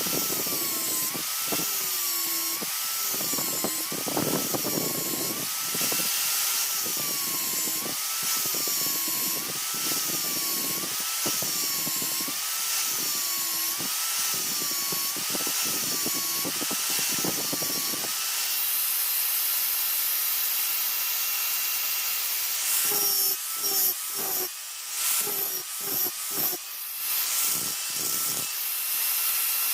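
Steel being ground or sanded on a running power tool in repeated strokes: the motor's whine dips in pitch about once a second as each stroke loads it. Near the end the strokes come separately and less evenly.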